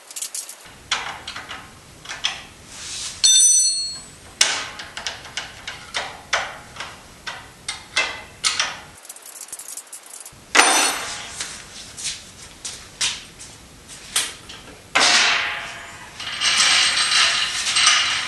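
Shop work on a metal workbench: a string of knocks, clicks and clanks from tools and metal parts being handled, with a brief high whine about three seconds in and a denser rasping stretch near the end.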